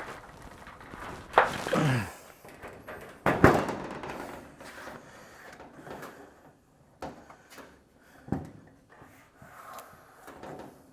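Steel trunk lid of a 1928 Ford Model A being forced and bent back into shape: a few knocks and clunks of sheet metal, two loud ones about one and a half and three and a half seconds in, the first trailed by a sliding downward tone, then lighter knocks near the end.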